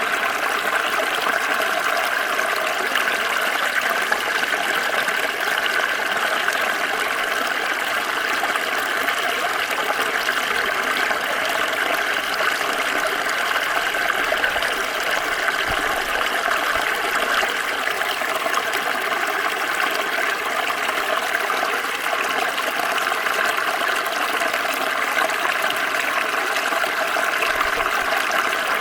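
Small stream flowing over stones: a steady, even rush and trickle of water.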